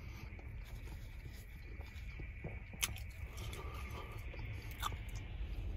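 Quiet chewing of a mouthful of fast-food sandwich with the mouth closed, with a few small sharp mouth clicks, over a low steady rumble inside the car.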